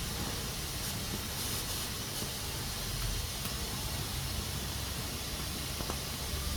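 Pressure cooker hissing steadily as steam escapes from its valve.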